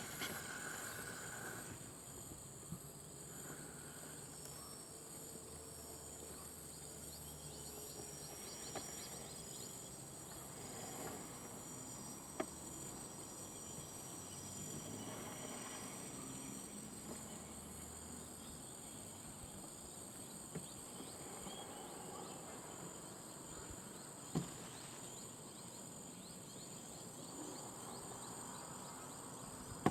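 Steady high-pitched chorus of insects in the background, with a few brief soft knocks.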